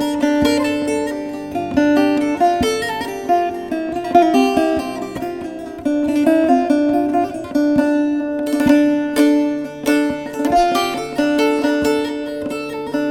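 Instrumental break in a Turkish folk song (türkü): a bağlama (saz) playing quick plucked melody notes over a steadily held lower note.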